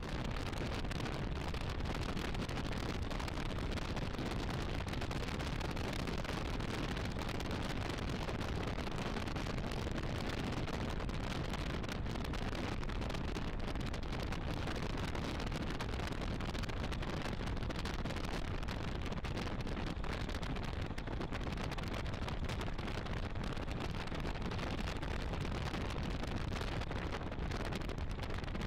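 Onboard sound of a 1986 AC Cobra MK IV's V8 running at speed on a race track, with heavy wind buffeting on the open-cockpit camera microphone. The noise is steady throughout, a deep rumble with no distinct gear changes.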